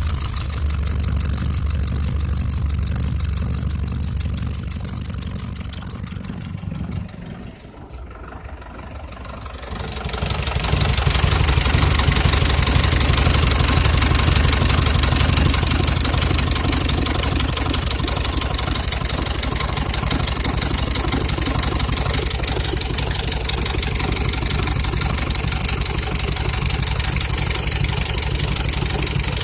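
Cummins diesel engine idling with a knock in the engine. The sound drops and goes muffled for a couple of seconds about a quarter of the way in, then comes back louder and steady.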